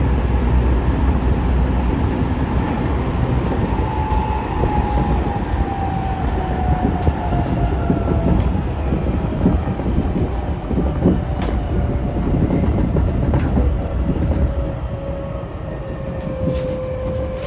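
Tokyo Metro 05 series train's Mitsubishi IGBT-VVVF inverter and traction motors heard on board, over heavy rumbling running noise: a whine that falls steadily in pitch from about four seconds in as the train slows for the next station. Scattered sharp clicks sound over it.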